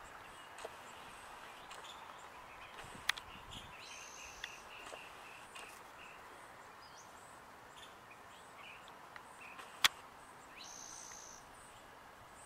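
Quiet outdoor ambience with scattered bird chirps and a couple of longer high notes, broken by two sharp clicks, about three seconds in and near ten seconds.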